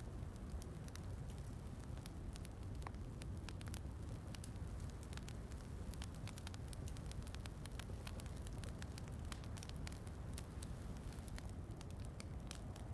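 Wood fire crackling, with many small, sharp pops at irregular moments over a steady low rumble of fire and rain.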